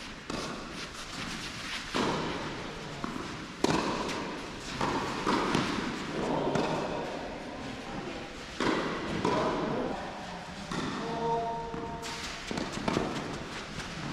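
Tennis balls being struck by rackets and bouncing on an indoor court, a sharp impact every second or two with each one echoing around the hall.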